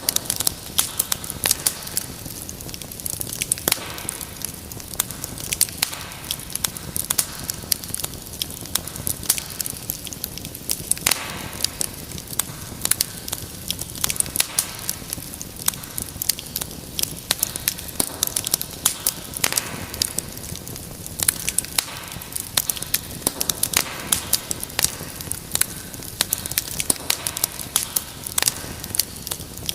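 Wood fire crackling steadily: many small sharp pops and snaps, irregular and close together, over a soft low rush of flame.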